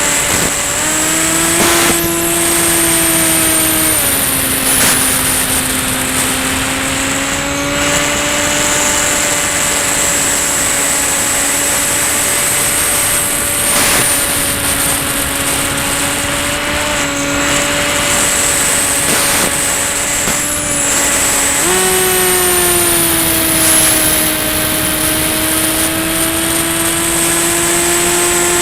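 Electric pusher motor and propeller of a Ranger EX FPV plane in flight, picked up by the onboard camera: a steady hum with a high whine over wind rush. The pitch steps up about a second in, drops back a few seconds later, and rises again about three-quarters of the way through as the throttle changes.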